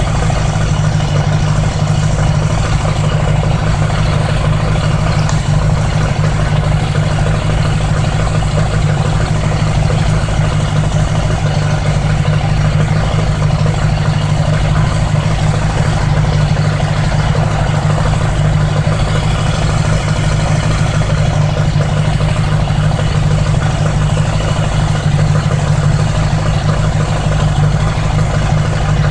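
1980s Honda Gold Wing motorcycle engine running steadily at an unchanging pitch, with no revving or gear changes.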